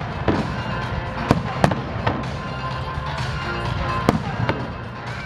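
Fireworks going off in a display: about half a dozen sharp bangs of bursting shells, over continuous music.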